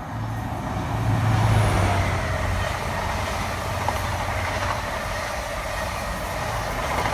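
A train running past, a steady low hum under the rushing noise of wheels on rails, growing louder about a second in and then holding.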